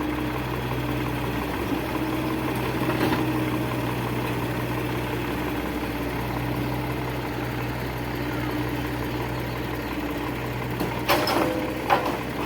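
Diesel engine of a tractor or excavator idling with a steady low hum, with a few sharp knocks near the end.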